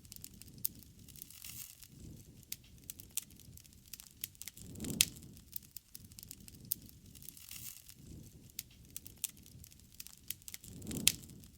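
Campfire crackling with many scattered sharp pops. A low rushing swell comes twice, about five seconds in and near the end, each with a louder pop.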